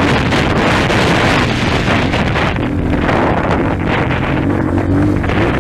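230 cc trail motorcycle's engine running at a steady pitch, heard under heavy wind buffeting on the microphone.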